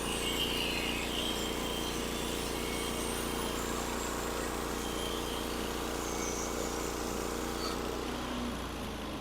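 Portable band sawmill running steadily under its gas engine as a new Cook's bandsaw blade cuts through a pine log. The steady engine tone fades about eight seconds in, leaving a lower hum.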